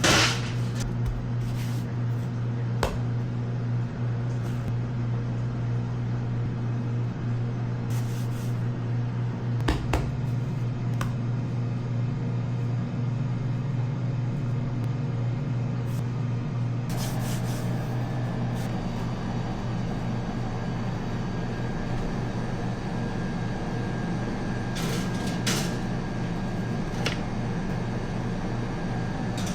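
Steady low machine hum, with a few sharp knocks; a second, higher steady tone joins about halfway through.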